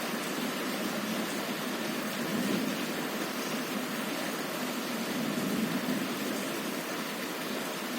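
Heavy rain on a window: a steady, dense hiss, with a low rumble that swells briefly twice.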